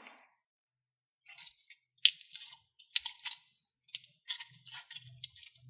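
Slime being squished and worked by hand: a run of sticky, wet crackles and clicks, with sharper snaps about two, three and four seconds in.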